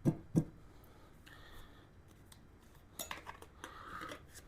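Tire-changing tools being handled and fitted on a motorcycle wheel: two knocks at the start, then a short run of clicks and rattles about three seconds in.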